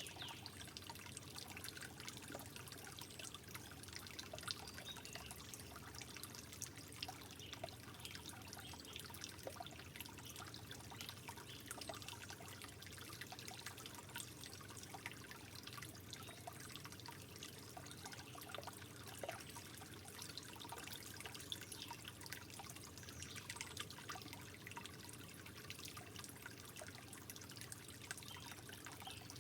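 Soft, steady trickling water with many small drips and splashes scattered through it.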